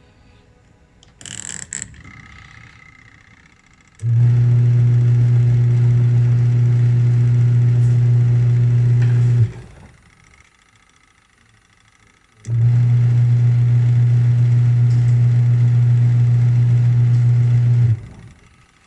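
Washing machine's wash motor and freshly repaired agitator gearbox running through its agitation cycle: a steady electric motor hum runs for about five seconds, stops abruptly, and after a pause of about three seconds runs again for another five seconds. A brief clatter comes about a second in, before the first run.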